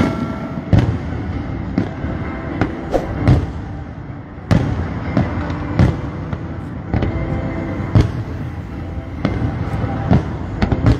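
Aerial fireworks shells bursting, a sharp bang about every second at uneven intervals, over a steady background din.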